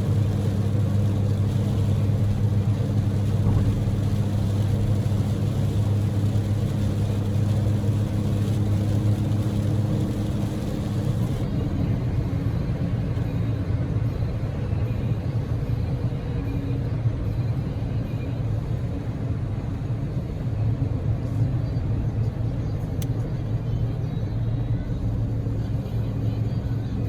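Daihatsu Move L150S's small three-cylinder engine and road noise heard from inside the cabin while driving, a steady low hum. A high hiss over it drops away about eleven seconds in.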